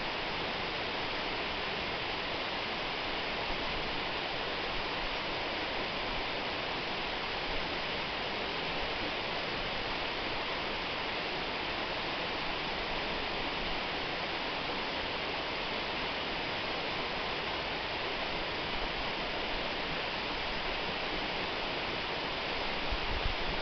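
Waterfall rushing in a steady, unbroken roar of falling water. A brief low rumble comes near the end.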